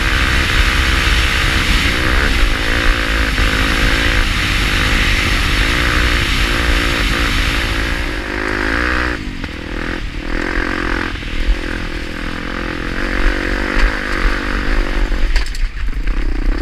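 Honda Tornado 250's single-cylinder four-stroke engine revving up and down under load as the enduro bike is ridden, with wind rushing over the mic. About nine seconds in the throttle eases and the engine note drops lower and quieter, with scattered knocks and clatter.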